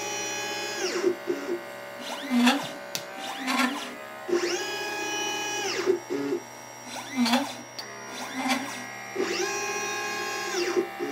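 LitePlacer pick-and-place machine's stepper motors whining as the placement head moves: each move starts with a rising pitch, holds, then falls as the head stops. A long move alternates with two short ones and a few clicks, the whole cycle repeating about every four and a half seconds as it picks and places parts.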